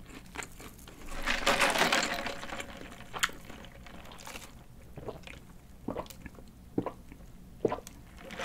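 Close-miked chewing and mouth sounds of someone eating a burger, with a louder noisy stretch lasting about a second near the start and scattered short wet clicks after it.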